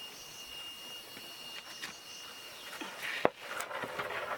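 A single sharp knock about three seconds in, among faint scattered clicks and a steady high-pitched tone.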